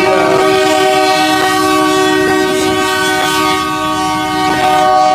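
Train horn sounding one long continuous blast, several steady pitches at once, with a few sharp clicks from the passing train.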